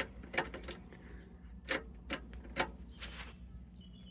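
A series of sharp clicks and knocks, about six of them, from the ignition key and switches at the Terex TA1EH site dumper's dash, with a brief rustle about three seconds in. The dumper's electrics have just gone dead after something clicked; a tripped circuit breaker is later found to be the cause.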